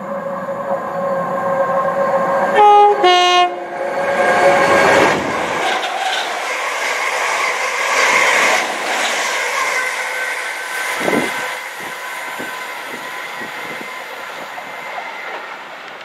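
Electric multiple unit sounding its two-tone horn, a short higher note then a lower one about three seconds in, then running past the platform. The pass is a loud rush of wheel and air noise with rail clicks that slowly fades.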